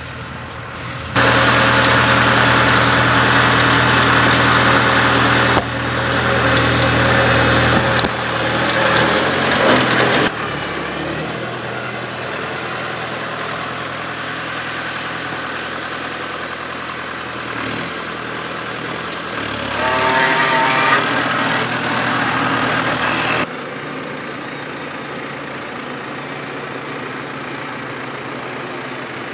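Farm tractor engines running, heard across several spliced clips: loudest with a strong steady engine hum for the first ten seconds or so, then a lower, steadier engine drone, with a brief louder stretch around twenty seconds.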